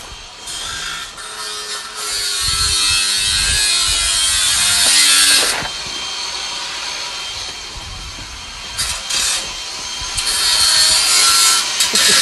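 A power tool running in two long bursts with a harsh, hissing sawing noise. The first runs from about two seconds in to five and a half, the second from about ten seconds in to near the end, with quieter running between.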